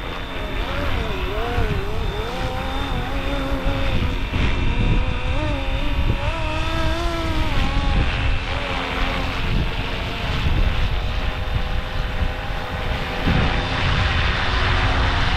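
Flywing Airwolf RC helicopter's electric motor and rotors whining in a hover, the pitch wavering slightly as it holds position against the gusts, with strong wind buffeting the microphone.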